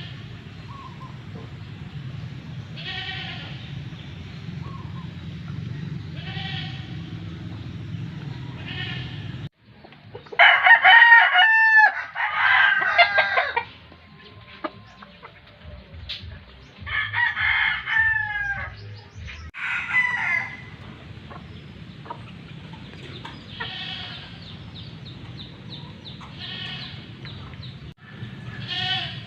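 Gamecock roosters crowing, several loud crows overlapping about a third of the way in and again past the middle. Fainter repeated animal calls come and go over a low steady hum in the rest.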